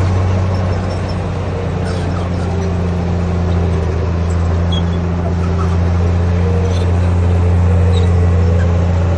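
Komatsu D58P bulldozer's diesel engine running steadily under load, a deep, even hum with a fainter whine above it that wavers in pitch.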